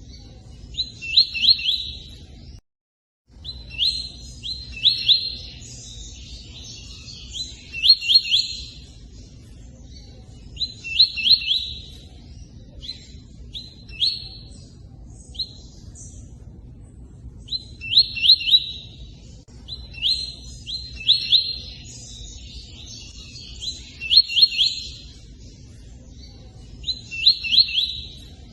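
A bird known in Brazil as the tui-tui singing in full song: short phrases of three or four quick, high chirping notes repeated every two to three seconds with pauses between, over a steady bed of running water. The sound cuts out completely for about half a second near the third second.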